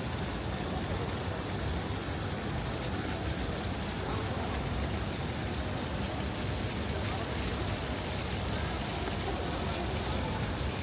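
Steady outdoor city ambience: a low rumble of traffic with faint voices of passers-by.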